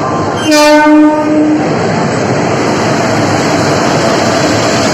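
Horn of a WAG-7 electric locomotive sounding one steady blast of about a second, then the steady rolling noise of the train's wheels on the rails as it runs in.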